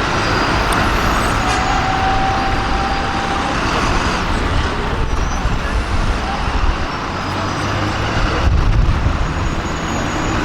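Busy city street traffic: bus and other vehicle engines running and passing in a steady rumble.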